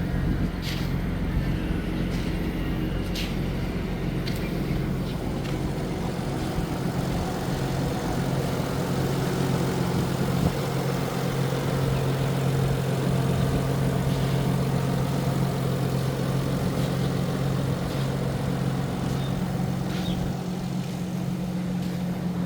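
Nissan 300ZX Twin Turbo's 3.0-litre V6 engine running at a steady, unchanging speed, with a few light clicks in the first few seconds.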